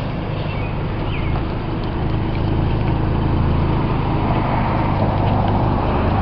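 1991 Mazda Miata's 16-valve four-cylinder engine running while the car is driven, with road noise. The engine note grows a little louder about two seconds in.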